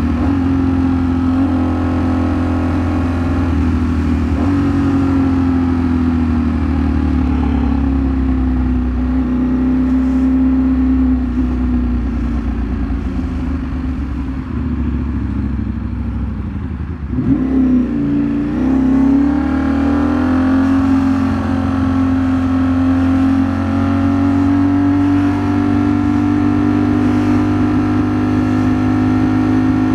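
Ducati Streetfighter V4 S's 1103 cc V4 engine running under way, heard from onboard the bike. The engine holds a steady note, eases off toward about seventeen seconds in, swoops in pitch through a quick change of revs, then picks up and settles into a steady note again.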